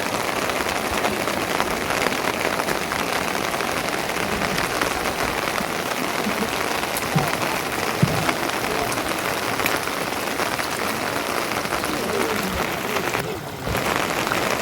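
Steady rain falling on a surface, a constant even patter, dipping briefly near the end.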